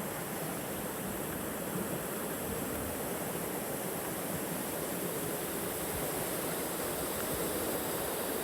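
Steady rush of water from a waterfall and its creek, slowly growing louder.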